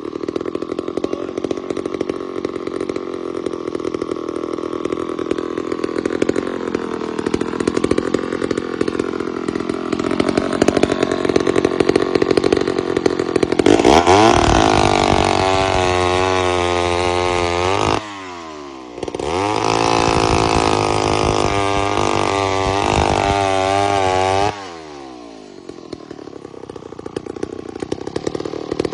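Old McCulloch 250 two-stroke chainsaw running at a low, steady speed, then revved sharply to full throttle about 14 seconds in. It stays high for a few seconds, dips briefly, revs high again, and drops back to idle near the end.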